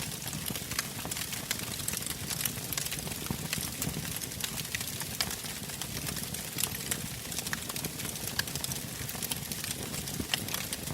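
Wood fire burning in a fireplace: steady crackling with frequent sharp pops over a low rumble of the flames.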